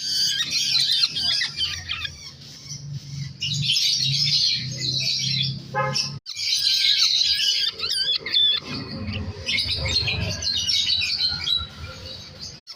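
Baby birds begging to be fed: a dense, rapid chatter of high-pitched calls in runs of a few seconds, with brief lulls between them.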